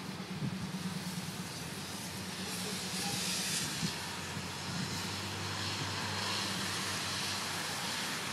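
Steady outdoor rushing noise of storm wind, with a low hum underneath that grows stronger about halfway through.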